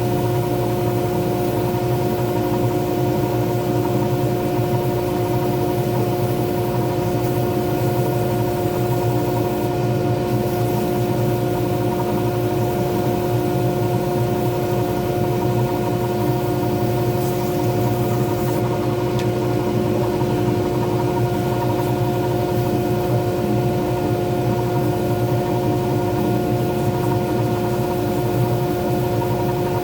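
Lathe motor running steadily at constant speed, a level hum with several held tones.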